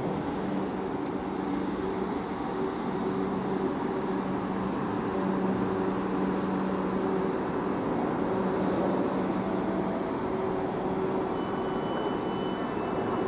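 South Western Railway electric multiple unit pulling into the platform and slowing to a stop, with wheel-on-rail noise and a steady low electric hum from its traction equipment.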